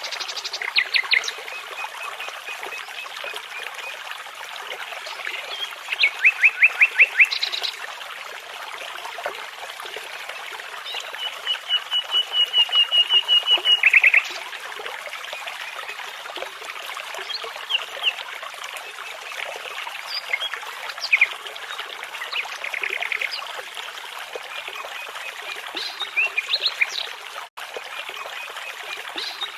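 Nightingale song over a babbling brook: a phrase every few seconds of rapid repeated notes and trills, the longest a run of about three seconds around the middle that ends in a buzzy rattle. Under it runs the steady rush of the water.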